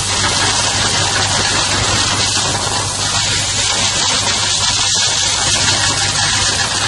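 Dryer vent cleaning machine running steadily: a constant rushing hiss of air over a low motor hum.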